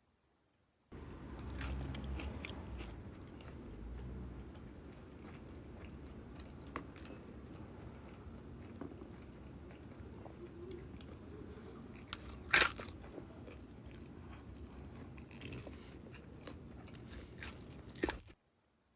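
Close-up chewing and biting of crispy cheese dumplings wrapped in fried wonton skins, crunching steadily. One sharp, loud crunch comes about twelve seconds in. The sound starts abruptly after a second of silence and cuts off shortly before the end.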